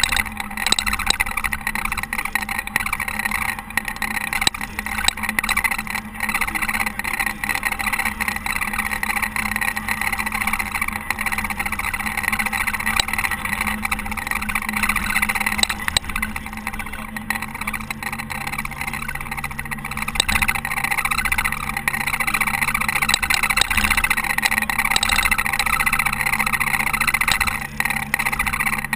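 Caterpillar TH330B telehandler's diesel engine running steadily under load while plowing snow. A lower steady hum joins about two-thirds of the way through.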